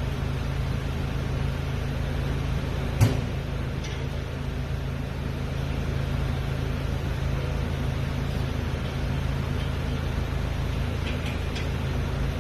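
A steady low mechanical hum, like a running motor or engine, with one sharp click about three seconds in.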